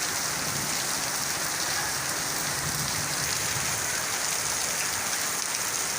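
Steady rain falling on surfaces, a constant even hiss.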